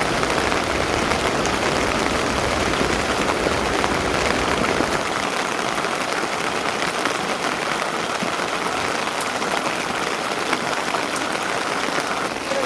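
Steady rain falling, a dense even patter, with a low rumble underneath for about the first five seconds.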